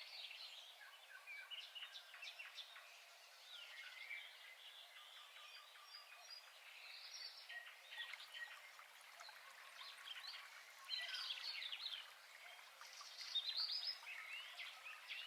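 Faint birdsong: many short chirps and trills from several birds, with louder bursts of calls a little past the middle and near the end.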